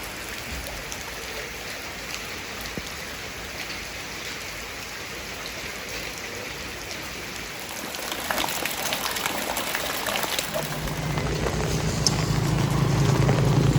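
Steady hiss of rain and running floodwater. About ten seconds in, a motor's steady hum joins it and grows louder.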